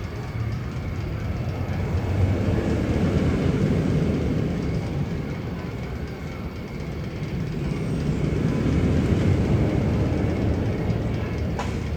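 Low rumbling sound effect played in the Magnum XL-200 coaster tunnel, train-like, swelling and fading twice, with a faint steady high tone under it and a short click near the end.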